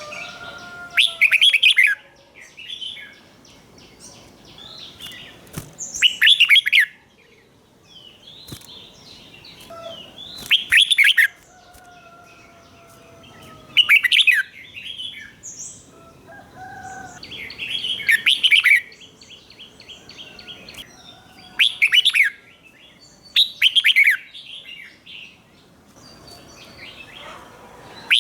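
Red-whiskered bulbul singing short, loud, bubbling song phrases, repeated about every four seconds, with fainter chirps and short whistles in between.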